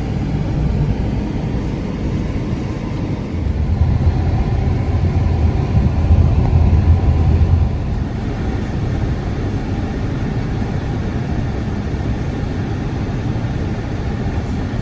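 Steady low rumbling noise that swells about three to four seconds in and eases back near eight seconds.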